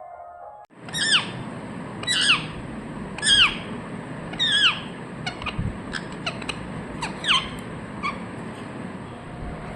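Pet parrot giving a series of short squawking calls, roughly one a second, each call falling sharply in pitch.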